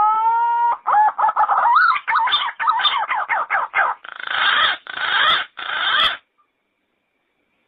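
Yellow-footed green pigeon calling: a long rising whistle, then a quick run of wavering, warbled whistles, ending in three harsher, rougher notes about four to six seconds in before the call stops.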